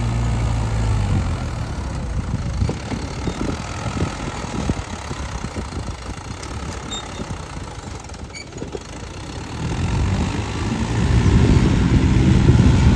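Swaraj tractor's diesel engine running. It drops away about a second in, stays lower for several seconds, then builds up and grows louder again from about ten seconds in.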